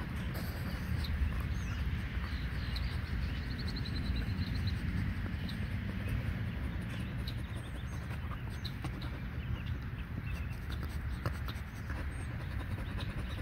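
Outdoor ambience of small birds chirping in the background, with a quick trill of repeated notes about four seconds in, over a steady low rumble.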